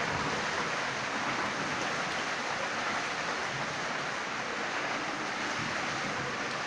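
Heavy rain falling in a steady, even hiss, with no thunderclap.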